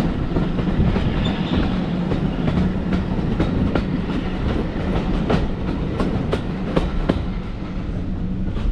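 Railway passenger carriage running along the track, heard from its open window: a steady rumble of wheels on rail. From about three to seven seconds in comes a run of clickety-clack as the wheels cross rail joints, about three clicks a second.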